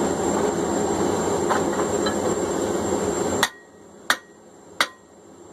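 A steady rushing noise cuts off suddenly about three and a half seconds in, followed by three sharp metal-on-metal hammer blows, each with a short ring, as a blacksmith's hammer drives a punch to knock the plug out of a hot hammer eye.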